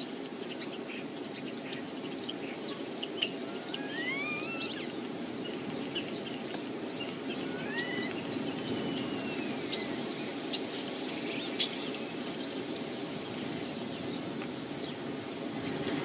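Wild birds chirping and calling, with many short high chirps and a few longer sliding whistles, some falling and one rising. Under them runs a steady rumble of wind.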